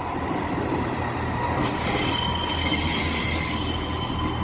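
Class 158 diesel multiple unit pulling into the platform: a low, steady engine hum, joined about a second and a half in by a high, multi-toned metallic squeal from the wheels and brakes that holds on.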